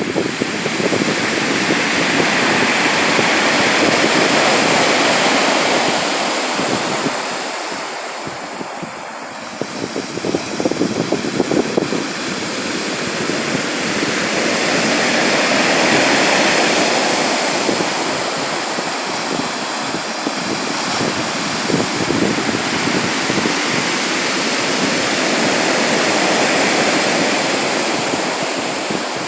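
Sea waves washing onto the shore, the surf swelling and easing three times, about every ten to twelve seconds.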